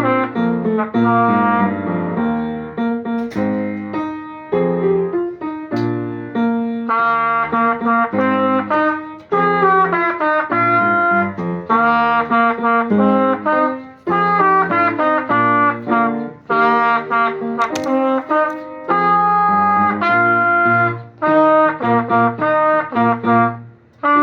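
Trumpet playing a concert band part in phrases of separate notes with short breaks, over other instruments sounding along underneath.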